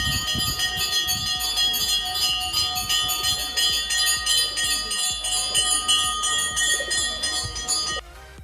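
A metal temple bell rung rapidly and continuously, with several steady ringing tones over fast repeated strikes. It cuts off suddenly near the end.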